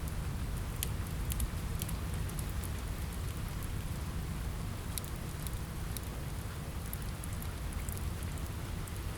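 Steady rain on a window, an even hiss over a low rumble, with scattered sharp crackles and pops from a wood fire in a fireplace.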